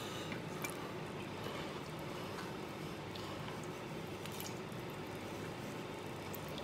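Stewed beef and its sauce being dished out of a pot: soft wet squishes and a few light utensil clicks over a steady low background noise.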